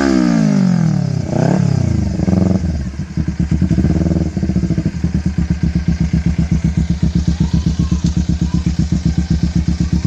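Motorcycle engine running through an aftermarket exhaust: revs fall from high rpm, two quick throttle blips come about a second and a half and two and a half seconds in, then it settles into a steady, pulsing idle.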